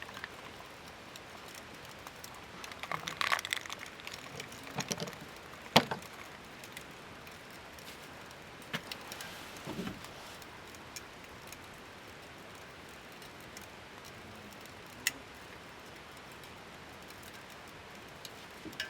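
Scattered clicks and knocks of small objects being handled, with a short rattling cluster about three seconds in and sharp single clicks near six and fifteen seconds, over a faint steady background hiss.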